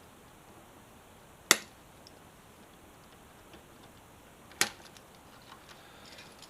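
Two sharp clicks about three seconds apart: cable ties on the motorcycle's wiring being snipped with cutters.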